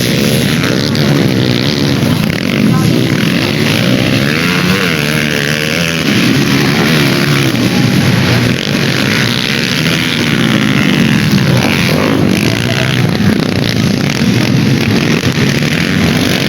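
Dirt bike engines revving, their pitch rising and falling over and over.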